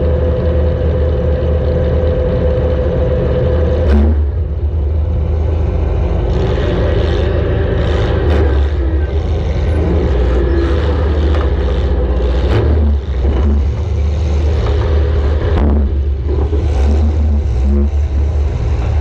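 A compact demolition-derby car's engine running hard under throttle, with a sharp bang of metal-on-metal collisions about four seconds in and several more later on.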